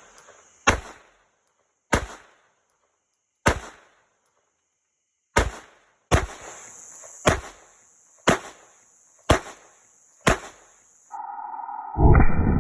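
Ruger LCP II Lite Rack .22 LR pocket pistol firing CCI Stinger rounds: nine sharp shots at an irregular pace, about one to two seconds apart. Near the end a steady electronic tone starts.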